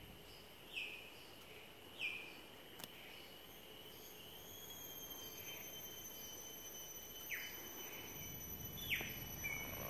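Birds calling: a handful of short, sharp calls, each sliding down in pitch, over a steady high insect whine.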